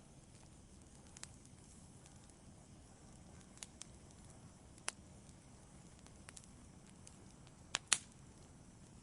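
Wood campfire burning with a low steady hiss and sparse sharp crackles and pops, about eight in all, the loudest a quick double pop near the end.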